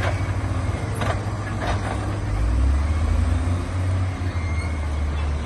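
Heavy diesel earthmoving machine engine running with a deep, steady drone that drops lower and grows louder a little over two seconds in. A few sharp knocks sound in the first two seconds.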